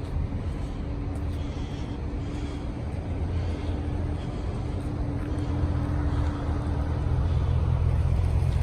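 Low, steady rumble of a vehicle passing on a nearby road, with a faint steady hum, growing gradually louder toward the end.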